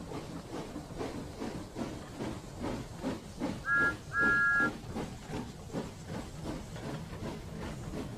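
Steam locomotive chuffing at a steady rhythm, with a two-note steam whistle sounding twice about four seconds in, a short toot then a longer one.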